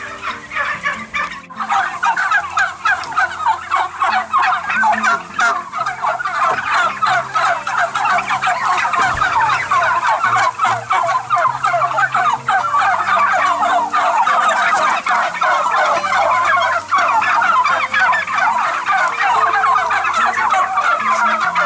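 A large flock of domestic turkeys gobbling, many birds calling at once in a dense, continuous chorus. It breaks off for an instant about a second and a half in, then comes back louder.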